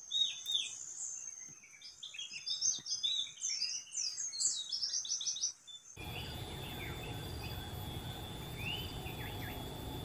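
Small birds chirping in quick, high notes over a steady high whine. About six seconds in the sound cuts to a hissier background with another steady high tone and a few short falling whistles.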